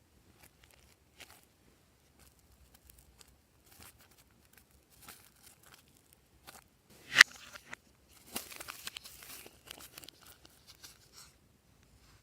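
Close-up handling noises while making slime: scattered soft clicks and pops, one sharp snap about seven seconds in, then a few seconds of crinkling and crackling.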